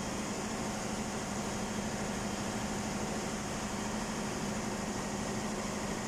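Ship's engine-room machinery running steadily: a constant drone with a strong low hum over a wide, even noise.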